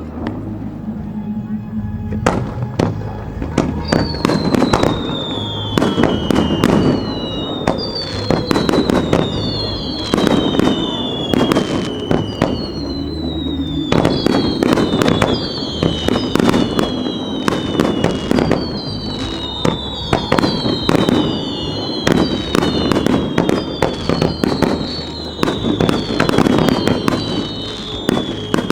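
Fireworks display: shells bursting in rapid succession, loud and dense. From about four seconds in, many high whistles slide downward in pitch one after another, overlapping the bangs.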